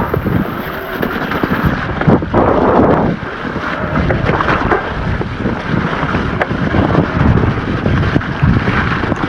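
Wind buffeting the microphone over the tyre noise and rattling of an electric mountain bike riding a rough, wet trail, with many small knocks.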